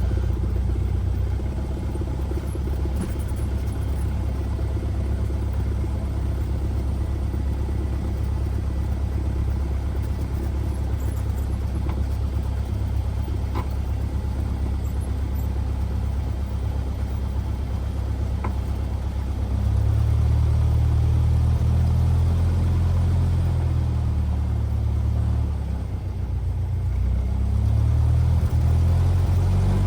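Cessna 172R's four-cylinder Lycoming engine and propeller running at low taxi power, a steady low drone. About twenty seconds in it grows louder, dips briefly a few seconds later, then rises again.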